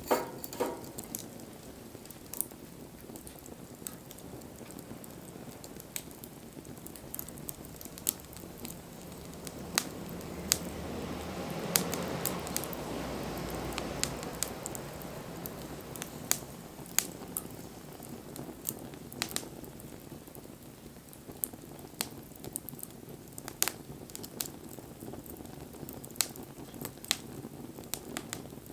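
Wood fire crackling, with sharp, irregular snaps and pops over a low hiss. About ten seconds in, a soft rushing swell rises and fades over a few seconds.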